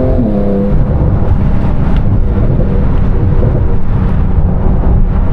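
Steady engine drone with road and wind rumble, heard from inside a car cruising; the engine note drops slightly just after the start.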